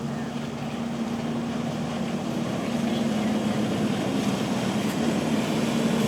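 Motorboat engines running steadily, growing gradually louder as the boat approaches.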